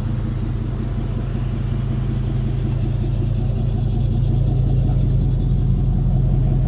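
Engine of a 31-horsepower hydraulic Barreto stump grinder running steadily with a low hum, growing slightly louder.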